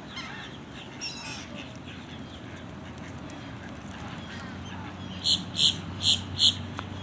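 A duck quacking four times in quick succession near the end, with fainter bird calls at the start.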